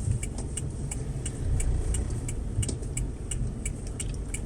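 Inside a moving car: a steady low engine and road rumble, with a light, regular ticking at about three ticks a second.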